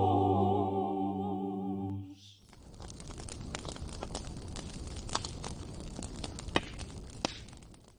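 A choir's final held chord fades away over the first two seconds. Then comes a steady crackling with scattered sharp pops, like a campfire burning, which cuts off abruptly at the end.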